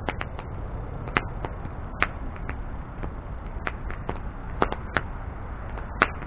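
Wood bonfire burning: sharp, irregular crackles and pops of the burning wood over a low, steady rumble of the flames.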